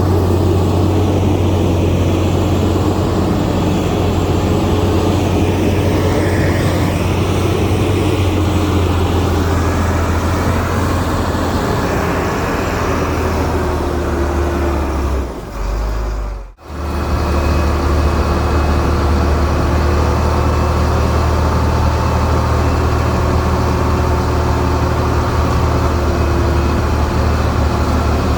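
Heavy diesel engine of earthmoving machinery running steadily under load, with a deep low drone. The sound briefly drops out a little over halfway through, then carries on as before.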